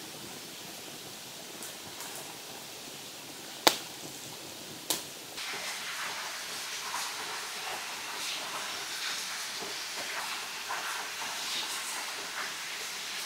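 Hissing and crackling from a campfire-heated cooking rock with kielbasa and steak sizzling on it. Two sharp pops come about four and five seconds in, and the sizzle grows louder and busier just after.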